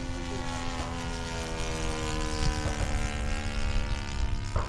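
Radio-controlled model airplane flying overhead, its engine and propeller making a steady drone whose pitch slowly falls over the first couple of seconds.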